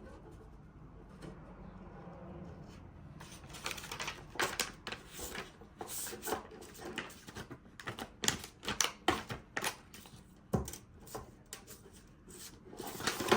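Irregular light clicks and taps, many in a row from about three seconds in, from the cardboard pieces of a jigsaw puzzle being handled, over a low steady hum.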